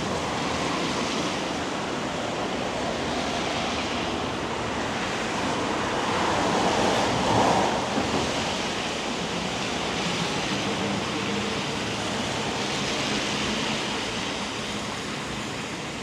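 Steady hiss of light rain and wet street, swelling briefly about halfway through.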